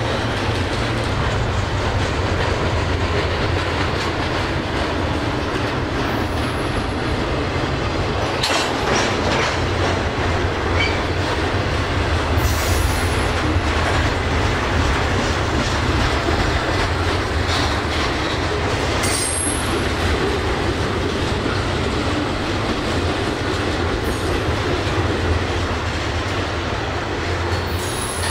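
Norfolk Southern double-stack intermodal freight train rolling past at close range: steady rumble and rattle of loaded container well cars over the rails. Brief high wheel squeals come through a few times.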